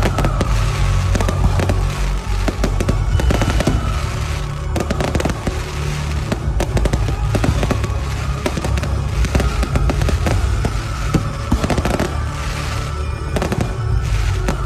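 Fireworks display: a continuous barrage of aerial shells bursting, with dense bangs and crackling throughout. Music plays underneath.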